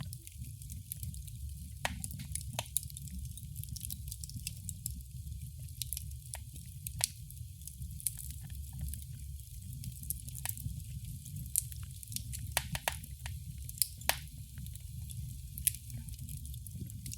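Fireplace wood fire crackling: irregular sharp pops and snaps, several a second at times, over a steady low rumble and a faint hiss.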